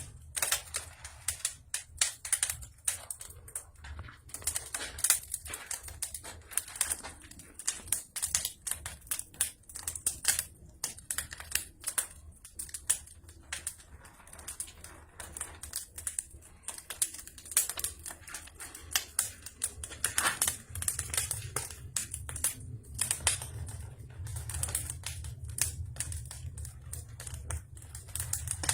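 Wood fire crackling in a fireplace: dense, irregular sharp pops and snaps over a low steady rumble that grows stronger about two-thirds of the way through.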